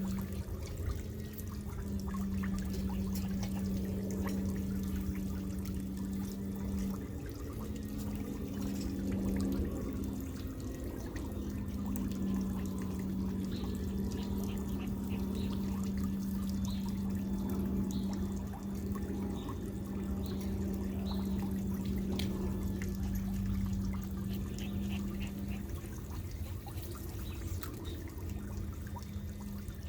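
Water trickling and pouring steadily over a constant low hum that drops out briefly a few times, with faint high chirps in the middle stretch.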